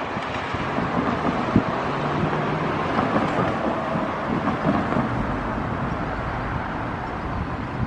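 Wind buffeting the microphone over a steady vehicle rumble, with many small low thumps throughout.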